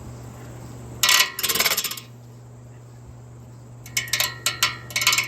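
Metal rattling in rapid clattering bursts, one about a second in and more from about four seconds, running into a continuous rattle near the end, over a steady low hum.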